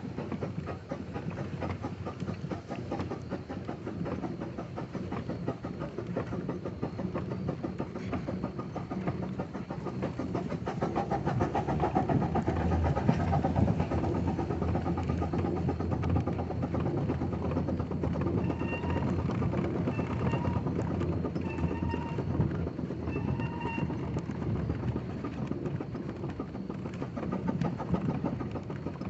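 Steam engine running with a fast rhythmic clatter, swelling a little around the middle. About two-thirds of the way through, a whistle gives four short toots.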